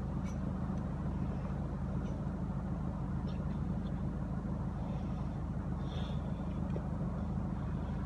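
A vehicle engine idling: a steady, even low hum that does not change.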